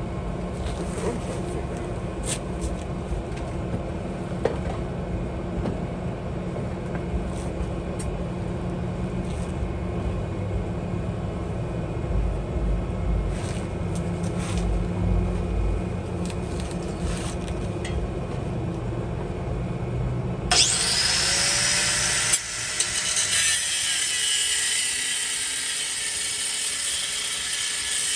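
Sawing and scraping at a truck's steel exhaust pipe, with scattered clicks over a low rumble. About twenty seconds in, a power tool starts suddenly and cuts with a loud, high hiss.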